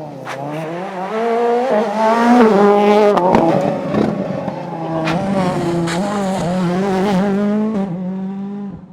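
Rally car engine revving hard and changing gear, its pitch climbing and dropping in steps, with a few sharp cracks. It fades near the end.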